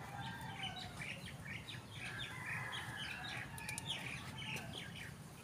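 Small birds chirping in quick, repeated short notes, with a few sharp snips of hand pruning shears cutting leafy twigs about three and a half seconds in.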